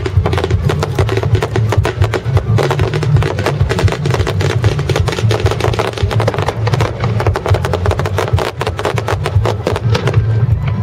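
Loud show music over loudspeakers mixed with a dense, continuous run of sharp firework bangs and crackles.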